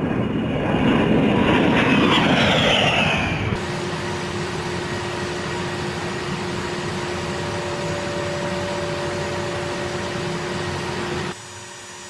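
A-10 Thunderbolt II's twin turbofan engines: loud jet noise with a whine falling in pitch over the first few seconds, then, after an abrupt change, a steady engine hum with a steady whine that cuts off near the end.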